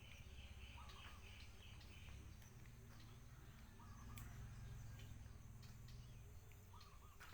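Quiet outdoor ambience with a low rumble. A bird gives a short call three times, about three seconds apart.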